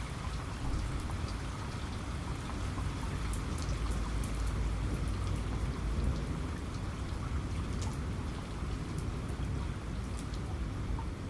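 Steady rain with many individual drops ticking, over a low rumble that grows slightly stronger in the middle.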